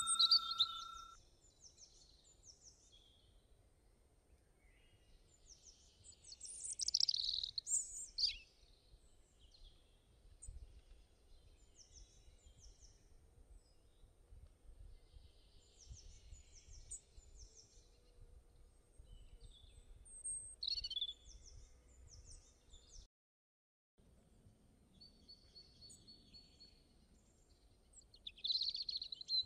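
Birds chirping in short high bursts, a cluster every few seconds, over a faint low background rumble.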